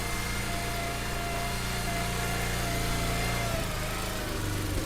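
Stihl MS880 two-stroke chainsaw idling steadily, its note shifting slightly near the end.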